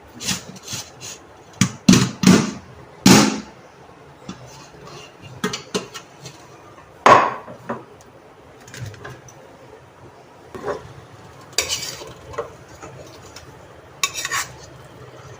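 A serving spoon scooping cooked biryani out of a pot into a bowl, with irregular clinks and scrapes of the spoon against the vessels. The loudest knocks come about two to three seconds in and again around seven seconds in.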